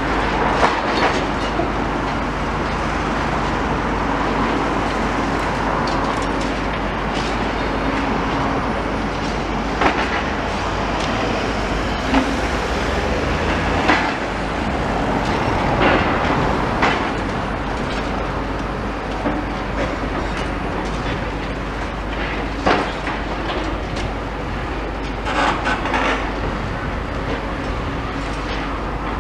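Demolition excavator working: its engine runs steadily under irregular metallic clanks and knocks from the machine on the rubble.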